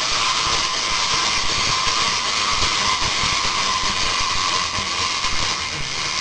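Clockwork mechanism of a wind-up toy chicken whirring steadily as it runs down its spring, a dense buzzing whirr with a faint steady whine.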